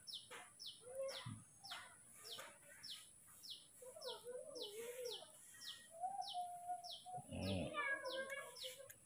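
A bird chirping over and over, faint short high falling chirps about two a second, with softer wavering calls in the middle. There is a brief low thump near the end.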